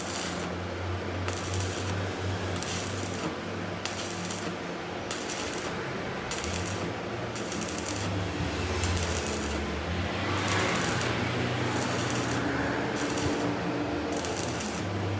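Machine-shop noise: a machine runs steadily with a low hum, metallic clinking and rattling over it, growing a little louder in the second half.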